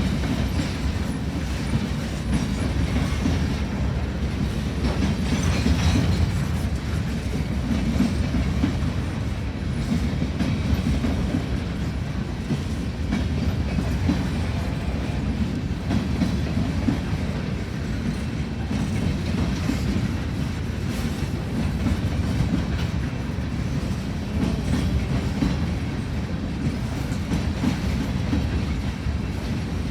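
Freight train rolling past at steady speed, its cars' wheels rumbling and clacking over the rail joints in a continuous low rumble.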